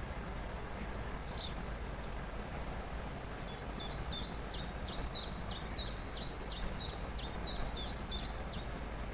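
Steady rush of a waterfall. A bird gives one falling whistle about a second in, then, from about halfway through until near the end, a quick run of about a dozen repeated high notes, roughly three a second.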